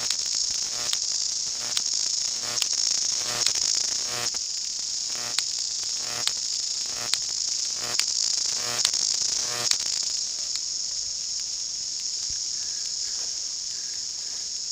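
A chorus of New Zealand chorus cicadas (Amphipsalta zelandica) singing loudly: a steady, high-pitched shrill buzz, with sharp clicks about once a second through the first ten seconds, then the buzz alone.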